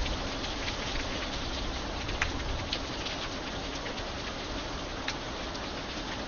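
Steady rain falling, an even hiss with a few sharper single drop ticks, one a little over two seconds in and another about five seconds in.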